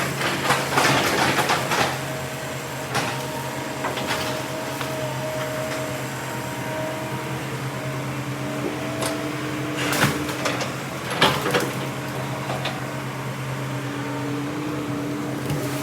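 Diesel engine of a heavy earthmoving machine running steadily, with sharp clanks and knocks, several in the first couple of seconds and a few more around ten and eleven seconds in.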